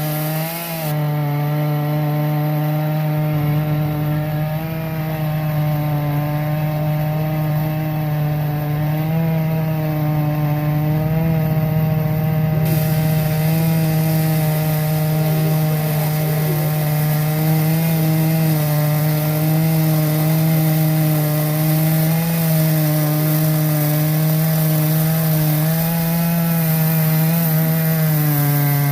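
Chainsaw running steadily at high speed under load, cutting through a wooden post.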